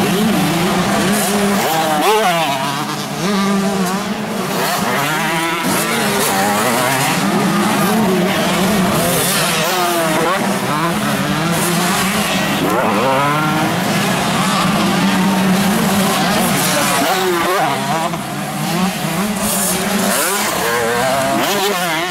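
Several 125cc motocross bikes racing, their engines revving up and down, with several pitches rising and falling over one another.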